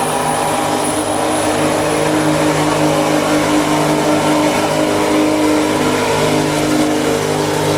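Race truck's diesel engine held at steady high revs during a burnout, its pitch nearly constant throughout.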